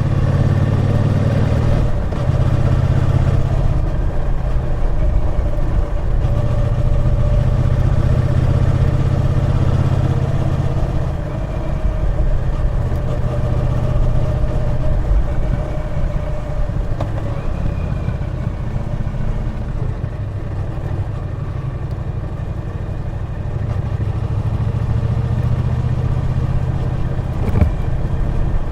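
Triumph Bonneville T120's 1200 cc parallel-twin engine running under way on the road. It pulls strongly for the first ten seconds or so, eases off through the middle and picks up again near the end, where there is one short sharp knock.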